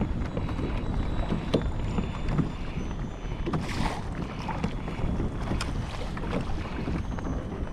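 Wind buffeting the microphone over water slapping against a kayak's hull, with scattered small knocks and a brief hiss about four seconds in.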